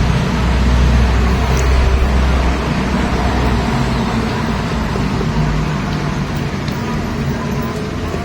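Steady low rumble of a running vehicle engine, with a hum that drifts slightly in pitch.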